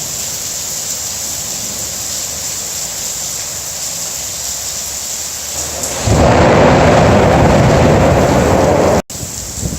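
Steady hiss of rain, then about six seconds in a loud clap of thunder that rumbles for about three seconds and cuts off suddenly.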